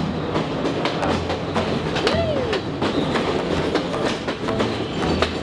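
Train on the rails with wheels clattering over the track, many irregular clicks, and a brief squeal that rises and falls about two seconds in.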